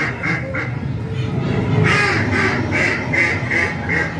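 Recorded bird calls played by an animatronic bird display: short calls repeated about two to three times a second, a brief run at the start and a longer run from about two seconds in, over the murmur of a crowd.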